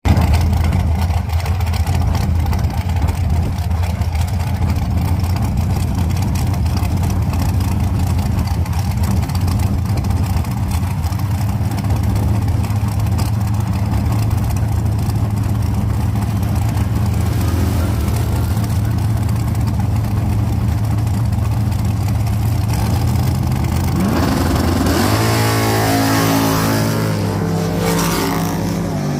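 Drag car engine running at a loud, steady idle, then about 24 seconds in an engine accelerates with a rising pitch.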